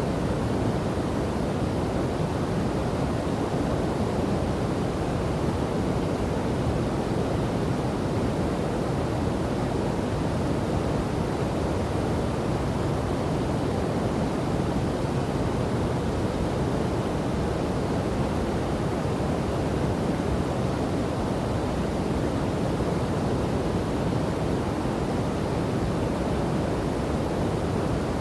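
Steady rush of flowing water, even and unbroken, deep and full rather than hissy, with no separate splashes standing out.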